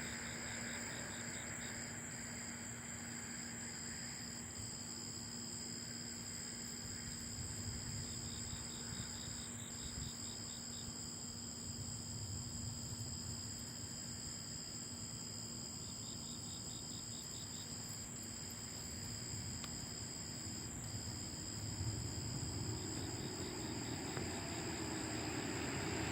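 Night chorus of crickets: steady high-pitched trills, with a faster pulsed chirping that comes in bursts every few seconds. A low rumble runs underneath, and a rising rush of noise builds near the end.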